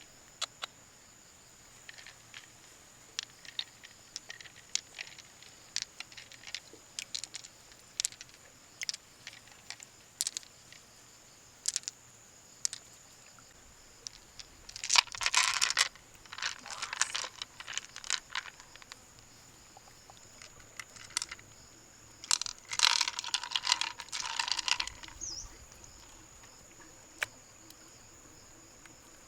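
Freshwater mussel shells and their contents being handled: scattered sharp clicks and taps of hard shell, with two louder stretches of scraping and clattering about halfway through and again a few seconds later. A faint steady high whine runs underneath.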